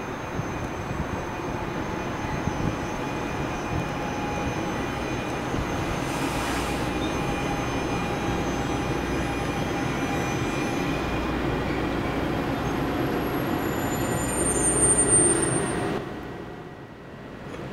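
NJ Transit Arrow III electric multiple-unit train running into the station and braking to a stop, a steady rumble of wheels and motors that grows louder as it nears. A brief high-pitched squeal from the brakes comes near the end. The rumble then drops away sharply as the train halts.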